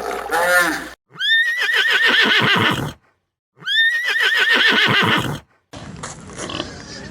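A horse whinnying twice: each call a high, shrill rise that breaks into a quavering, falling neigh lasting about two seconds, with a short gap between them. A quieter, noisier stretch of background sound follows near the end.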